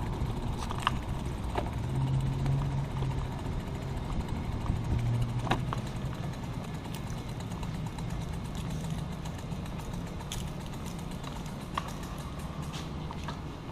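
Riding a road bike: steady low wind and road rumble on the microphone, with scattered sharp clicks and a faint low hum now and then.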